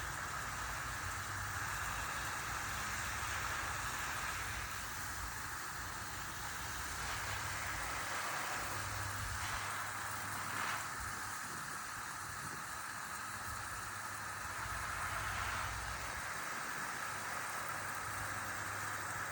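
Garden hose spray nozzle watering plants, a steady hiss of fine spray falling on leaves.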